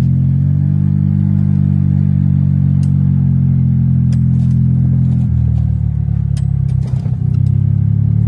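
Golf cart running along a woodland trail, a steady low drone from its drive that drops in pitch and turns uneven about five seconds in before settling again, with occasional sharp clicks and rattles.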